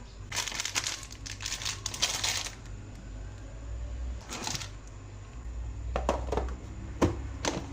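Crinkly wrapping being handled in several crackling bursts, the longest in the first couple of seconds. A few sharp clicks and knocks follow near the end.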